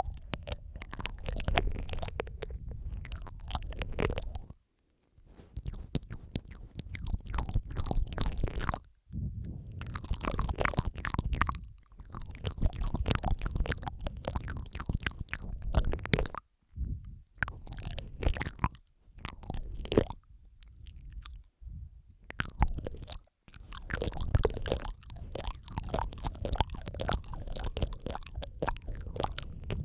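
Close-miked wet mouth sounds, several takes layered over one another: dense runs of lip and tongue clicks and smacks over a low rumble, broken now and then by brief gaps of silence.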